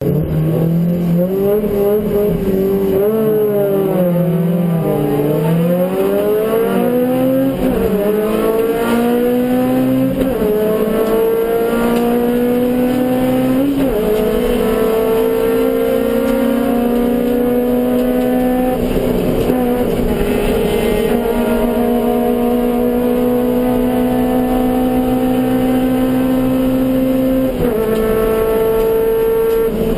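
Suzuki Swift GTi race car's G13B four-cylinder engine running hard under racing load. Its pitch first dips and climbs, then rises slowly through each gear, dropping suddenly at a few upshifts.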